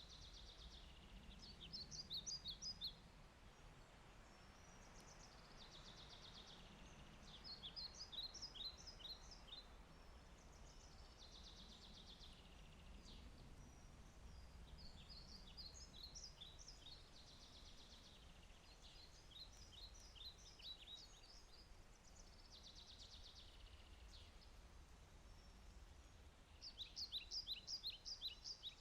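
A songbird singing short phrases of quick, falling high notes, repeated every few seconds over a faint steady hiss.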